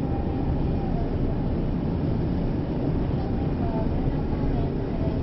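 Kyoto subway Karasuma Line train under way, a steady rumble of wheels on rail with a faint wavering whine above it.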